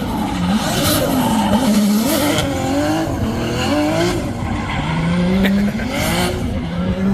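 Drift car's engine revving up and down on and off the throttle, with tyres squealing as it slides.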